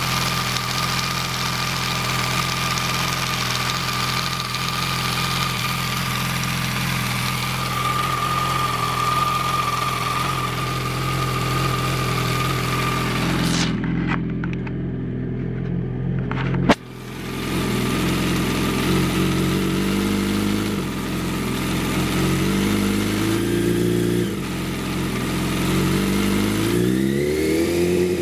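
Yamaha R1 inline-four idling with a rattling noise, the rattle the owner says goes away when the clutch is pulled in or the throttle is opened. Past the middle the sound turns muffled for a few seconds and ends in a sharp click, then the engine speed shifts up and down and rises in a short rev near the end.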